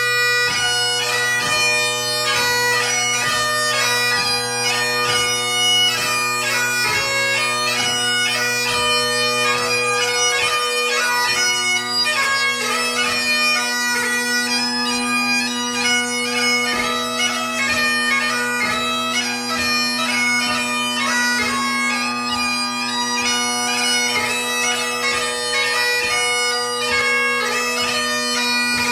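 Great Highland bagpipe played solo in competition light music: the drones sound steadily beneath a fast chanter melody broken by many quick grace notes.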